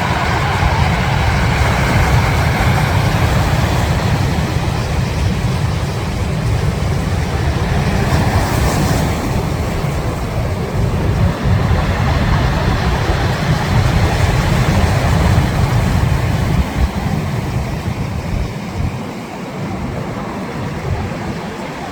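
Wind buffeting the microphone in a choppy low rumble over a steady wash of sea noise. The rumble eases for a few seconds past the middle.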